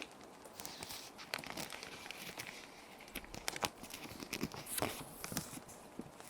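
Plastic sheet protectors crinkling and crackling as paper sheets are handled and slid into them, with many small sharp crackles and a few longer sliding swishes. Underneath is a steady soft rain track.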